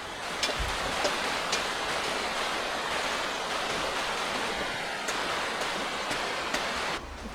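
Running water rushing steadily, like a stream, with a few sharp clicks, cutting off abruptly near the end.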